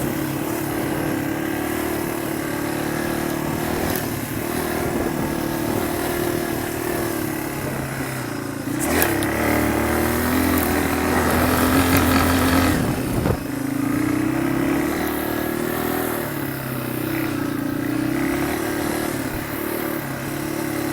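Motorcycle engine running at low speed, its note shifting a few times. From about nine seconds in it gets louder and lower for a few seconds, then drops off suddenly.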